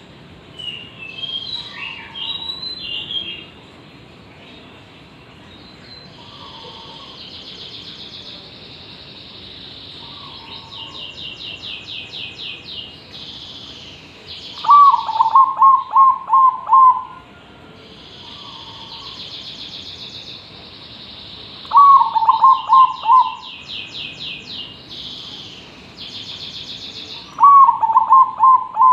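Zebra dove (perkutut) cooing: three loud phrases of quick stuttering coo notes, about halfway through, about two-thirds through and near the end, with softer single coos between them. Higher-pitched chirps and trills run underneath.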